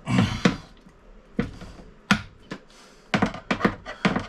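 Sharp clicks and knocks of hand work on toilet fittings in a small bathroom, scattered at first, then coming quickly, several a second, near the end.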